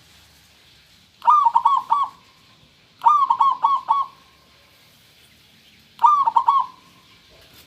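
Zebra dove (perkutut) cooing: three short phrases of quick, clear coos, each a run of several notes lasting about a second.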